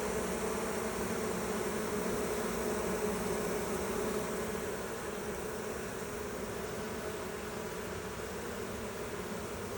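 Many honeybees buzzing together in a steady drone around a hive.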